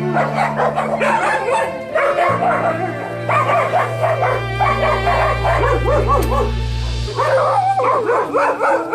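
Puppies yipping and whining in many short, rising and falling cries, over background music with long held low string notes.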